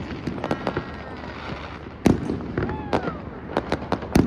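Fireworks and firecrackers going off: scattered sharp bangs and crackles, with a loud bang about two seconds in and another near the end.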